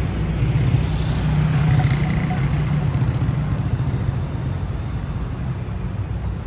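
A motor vehicle's engine running nearby on a city street, a steady low hum that grows louder about a second in and then slowly fades.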